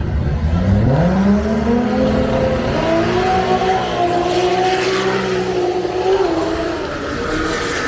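Drag racing car's engine at full throttle on the strip, its pitch climbing steeply over the first two seconds and then holding high with small steps.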